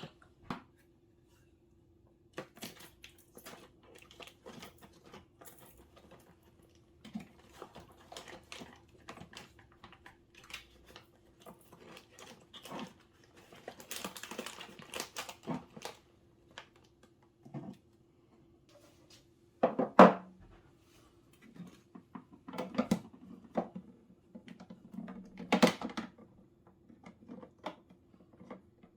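Scattered light clicks, taps and knocks of household objects being handled, with a few louder knocks in the second half and a faint steady hum underneath.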